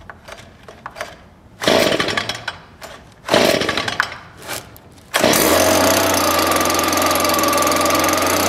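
Stihl SH 56 C-E shredder vac's small two-stroke engine being pull-started cold on choke: two recoil pulls that turn it over without catching, then it fires on the third pull about five seconds in and keeps running steadily.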